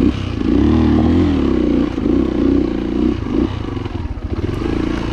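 Dirt bike engine revving hard under load, its pitch rising and falling unevenly for the first few seconds, then running more steadily.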